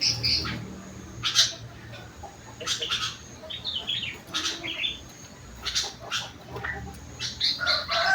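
Kutilang (sooty-headed bulbul) singing in short, sharp chirping phrases, with a quick run of falling notes in the middle; its song is filled with learned rengganis and cucak wilis phrases.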